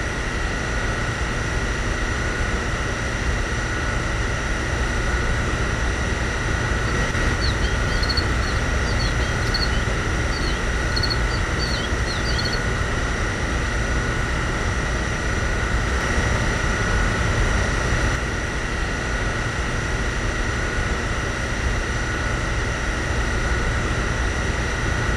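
Small electric hobby motor of a homemade mini tractor model running steadily, with a constant high whine over a low rumble.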